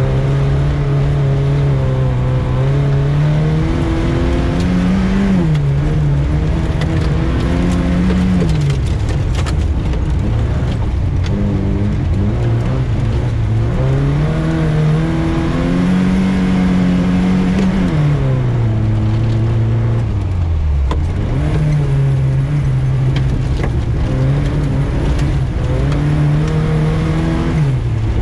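VAZ 2105 rally car's four-cylinder engine driven hard, its revs climbing and dropping again and again through gear changes and lifts off the throttle, over steady road noise.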